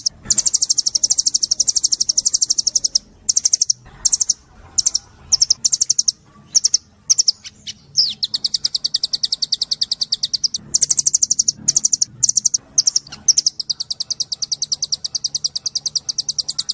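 Small songbird singing a fast, high-pitched trill of about nine notes a second, broken in the middle by a few seconds of scattered short chips before the trill starts again.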